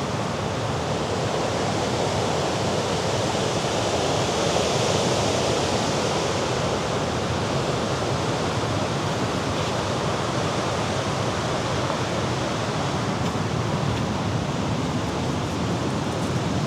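Steady rush of Mediterranean surf below the cliffs, mixed with wind, swelling a little around five seconds in.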